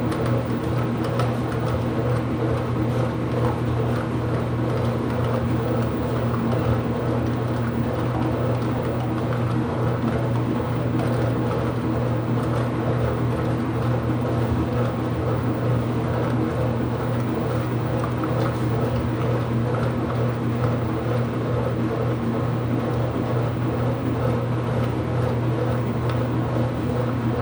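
Steady machine hum in a laundry room, with a strong low tone and several fainter higher tones that hold level without a break or rhythm.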